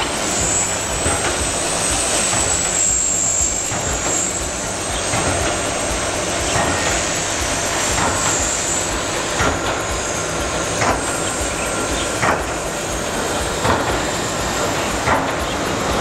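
Storm 450 electric RC helicopter in flight, its brushless motor and gears giving a very high-pitched whine that wavers slightly, over a steady rush of rotor noise. Short sharp ticks come about every second and a half in the second half.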